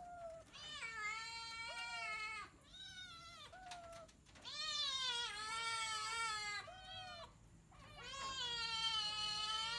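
A cat meowing: three long, drawn-out meows with a few short ones between them.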